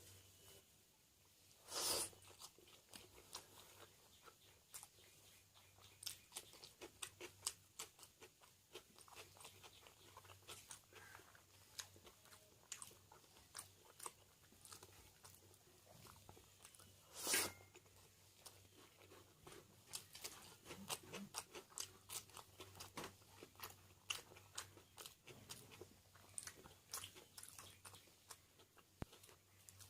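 A person chewing and crunching a mouthful of egg biryani, fish fry and salad, with frequent small mouth clicks and two louder crunches, one about two seconds in and one past the middle.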